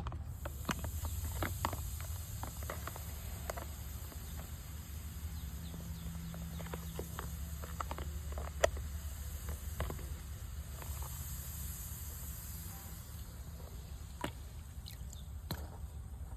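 Steady high insect chirring over a low rumble, with scattered small clicks and taps; one sharper click stands out about halfway through.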